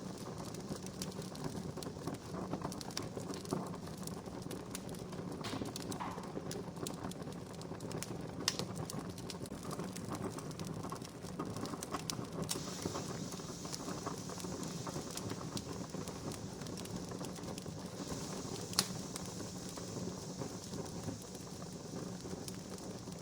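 Wood fire crackling steadily with many small snaps and two louder pops, under a soft hiss that grows brighter about halfway through.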